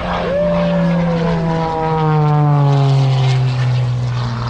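Propeller airplane flying past, its engine drone sliding down in pitch as it passes, loudest around the middle.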